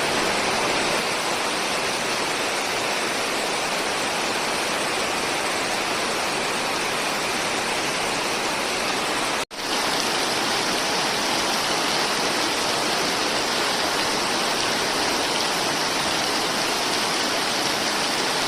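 Heavy rain pouring down in a steady, dense hiss. It cuts out for a moment about halfway through, then carries on as before.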